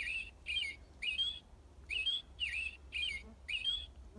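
American robin singing: a string of short, clear caroling phrases that rise and fall, about two a second, with a brief pause near the middle.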